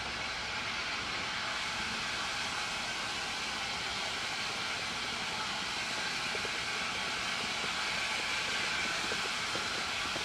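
Steam locomotive giving off a steady hiss of escaping steam, growing slightly louder, with a few faint clicks in the second half.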